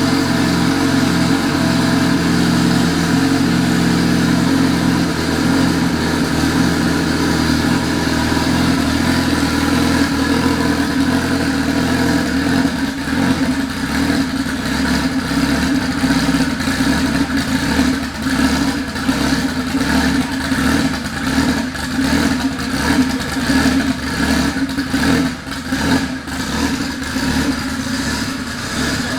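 A Honda Integra's B-series four-cylinder engine running as the car is driven. It is steady for the first twelve seconds or so, then more uneven, with clattering and clicks over it.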